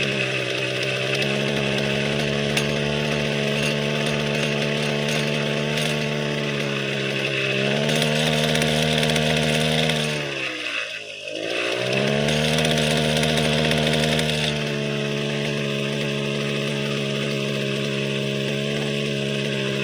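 Petrol brush cutter engine running at high revs, its speed wavering; about ten seconds in it sags sharply, almost stalling, then picks back up. The stumbling is the rough running of an engine left unused for six months.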